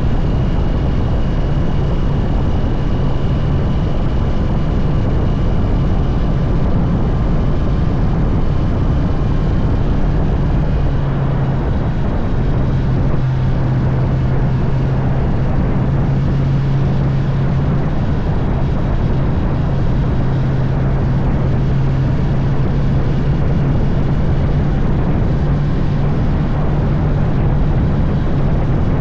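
Honda CB650R's inline-four engine running at a steady cruise, a low even drone over constant rushing noise.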